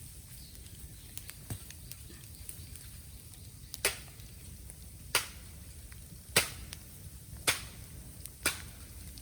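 Bamboo burning in a bonfire, cracking sharply five times about a second apart in the second half, with faint crackling between.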